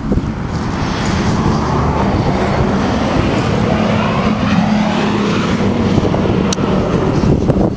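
A car's engine running steadily with a low hum, the noise of its running laid over it; a single sharp click about six and a half seconds in.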